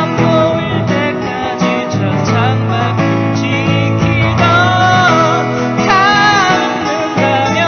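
Acoustic guitar strummed under a singer's held, wavering notes: a live song with guitar accompaniment.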